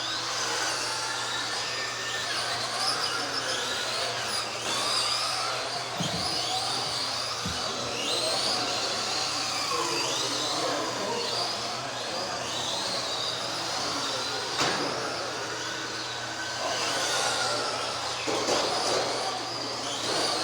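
Several electric RC Euro trucks racing, their motors whining and gliding up and down in pitch as they speed up and slow down around the track. There is a steady low hum underneath and a single knock about fifteen seconds in.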